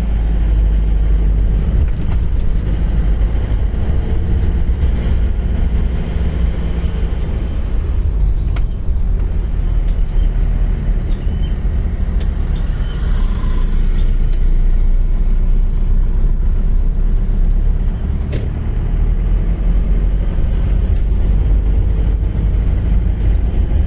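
Engine drone and road rumble heard from inside a moving vehicle, a steady low rumble, with a single sharp click about eighteen seconds in.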